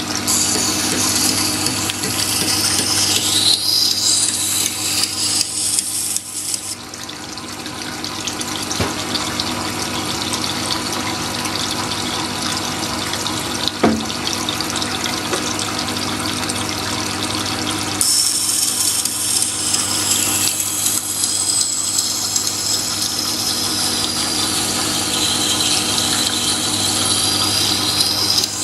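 Jet water-cooled wet sharpening machine running slowly, its motor humming steadily while a knife blade is ground against the coarse side of the wet stone with a hissing, scraping sound. The grinding is louder for the first few seconds and again over the last ten, and quieter in between.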